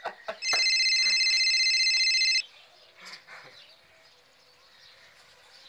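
Mobile phone ringing for an incoming call: a fast-pulsing electronic ring tone that starts about half a second in and stops after about two seconds.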